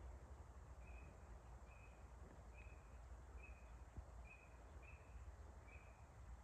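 Faint bird call repeated over and over: a short note on one pitch, about once a second, seven times, over a low rumble.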